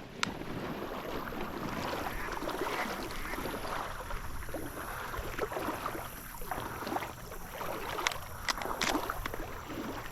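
Uneven swishing and sloshing of someone moving through shallow marsh water, with a few sharp clicks near the end.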